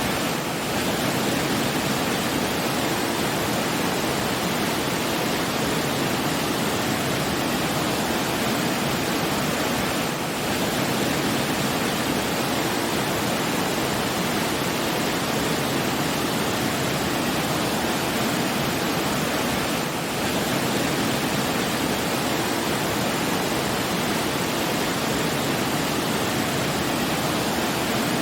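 Steady, even rushing noise, like falling water, with no music or voices. It dips slightly for a moment about every ten seconds.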